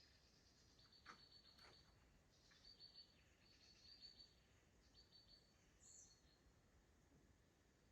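Faint birdsong: short high-pitched phrases repeated about five times at irregular intervals, over a very quiet natural background.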